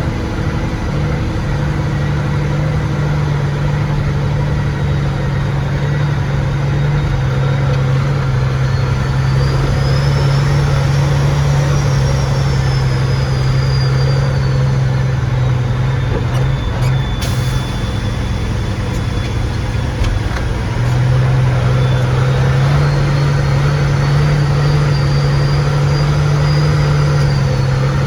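Loaded log truck's diesel engine pulling steadily under load, with a high whine that rises and falls. It gets louder about three-quarters of the way through.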